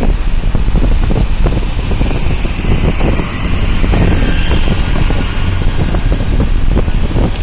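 Road traffic noise: a loud, steady low rumble of vehicles, with irregular low thumps throughout.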